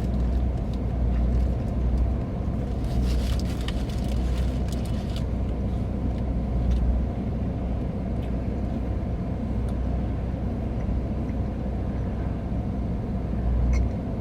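A car's engine running with a steady low rumble, with a few faint clicks about three to five seconds in.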